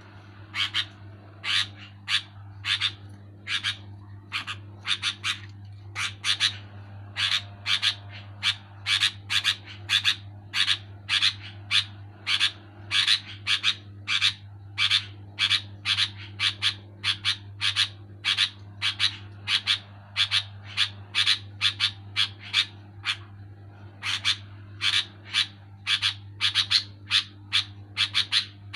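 Sooty-headed bulbul (kutilang) calling in a long run of short, sharp notes, about two to three a second, with a couple of brief pauses. A steady low hum runs underneath.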